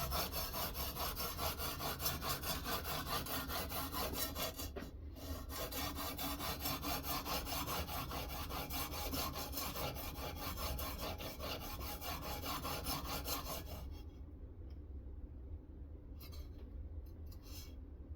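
Sharpening stone on a Ruixin Pro guided sharpening system rubbing back and forth along a knife edge in quick, even strokes, with a brief pause about five seconds in. The stroking stops about fourteen seconds in, leaving only a few faint light scrapes.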